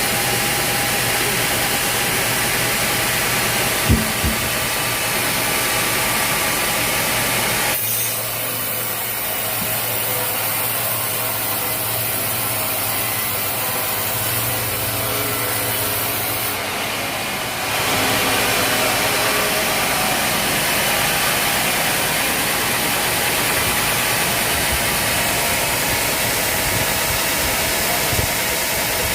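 Sawmill machinery running steadily with engine noise, a sharp knock about four seconds in. The sound changes abruptly about eight seconds in and again near eighteen seconds.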